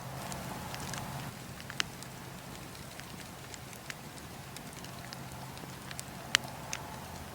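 Campfire of burning logs crackling, with scattered sharp pops every second or two, the loudest about six seconds in, over a steady low hum.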